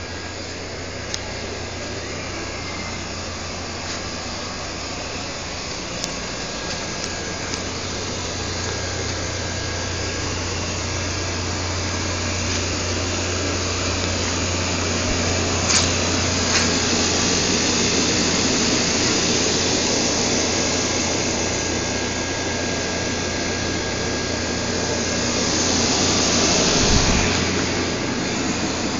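A machine running steadily with a low hum and a hiss that grows slowly louder, with a few faint clicks.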